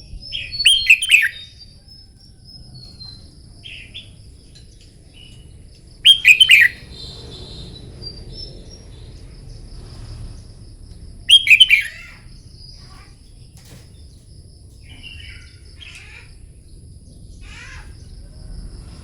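Red-whiskered bulbul singing its fighting song. Three loud, short warbled phrases come about five seconds apart, with softer chirps between them. A steady high whine runs underneath.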